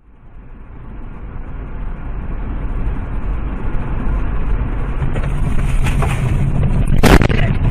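Car engine and road noise, growing steadily louder over the first few seconds, then a sudden loud bang near the end.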